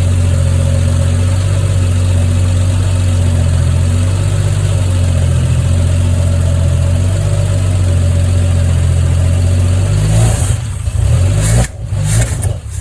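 Freshly rebuilt Triumph TR6 straight-six engine running steadily on its early run-in. About ten seconds in, the even running breaks up and turns uneven, with the level dropping and surging.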